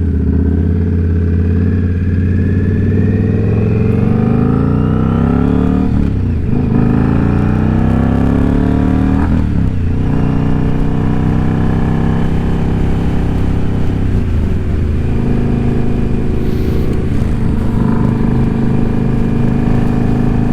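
Indian Scout Bobber's V-twin engine pulling away and accelerating through the gears. The pitch rises, then drops at a shift about 6 and 10 seconds in, and then holds at a steady cruise.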